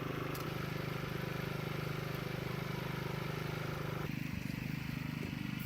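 An engine running steadily at a constant speed, a low even hum with a fast regular pulse. About four seconds in, the higher part of the sound drops away abruptly and the hum continues duller.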